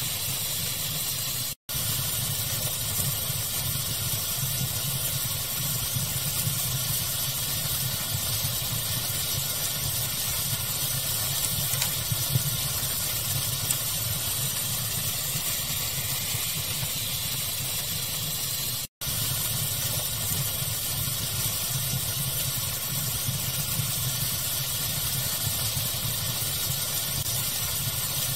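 Steady rushing pink noise with a low rumble, mixed with a fire ambience that has a few faint pops. The sound cuts out for an instant twice, at loop joins.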